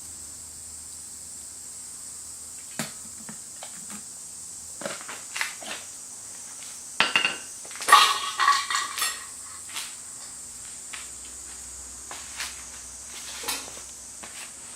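Metal cookware and utensils clinking and clattering in scattered knocks, busiest about seven to nine seconds in, with a few short ringing clinks.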